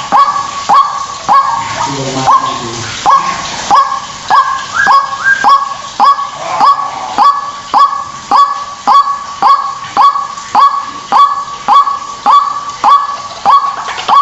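White-breasted waterhen (ruak-ruak) calling: a steady series of short, loud call notes repeated about twice a second.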